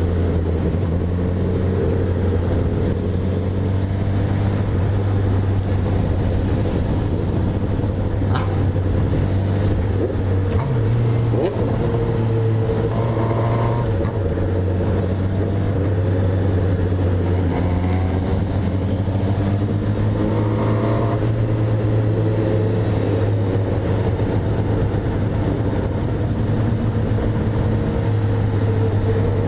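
Motorcycle engine running steadily at cruising revs. The revs rise briefly about ten seconds in and drop back around fourteen seconds.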